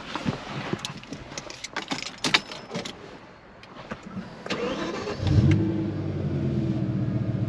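A few clicks and knocks, then the straight-piped BMW M6's S85 5.0-litre V10 cranks and fires about five seconds in. It flares loudly on start-up and settles into a steady idle.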